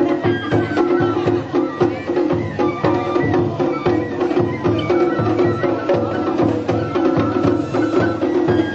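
Japanese festival hayashi music: taiko drums beating a quick, steady rhythm with a pitched melody line played over them.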